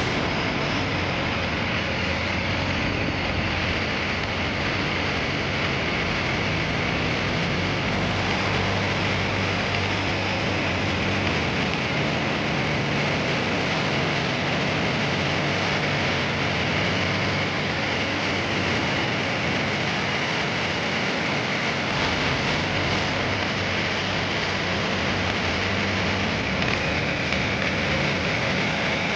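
Long-tail boat's inboard engine running steadily at cruising speed, a low drone under a wash of water and wind noise.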